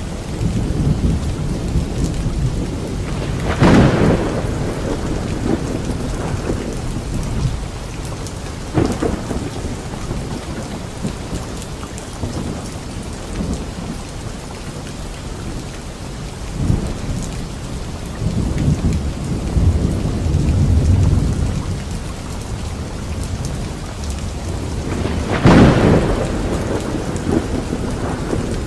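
Steady rain falling, with rolling thunder throughout: two sharp, loud thunderclaps, about four seconds in and near the end, and a long low rumble in between.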